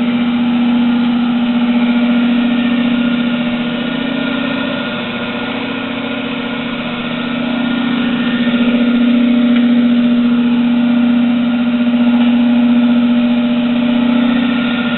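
Rong Fu 38-inch radial drill press running with its spindle turning in reverse: a steady, loud hum from the electric motor and five-speed belt drive, with a strong low tone that swells slightly.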